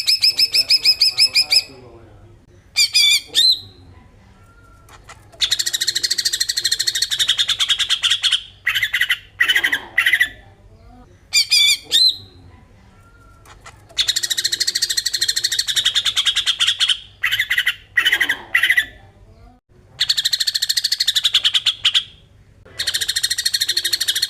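Green leafbird (cucak ijo) giving its 'besetan' call: rapid, rattling chatter in phrases of about two to three seconds, separated by short pauses, with a couple of shorter bursts between them.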